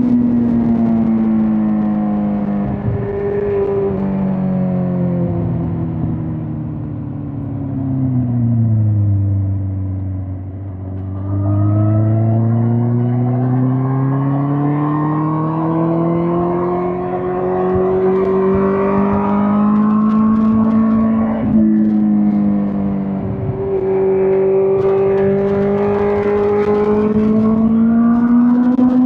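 A 2005 Suzuki GSX-R1000 K5's inline-four engine under way. The engine note falls steadily for about ten seconds as the bike slows, then climbs for about ten seconds. Two-thirds of the way through, the pitch dips briefly, then holds and rises a little toward the end.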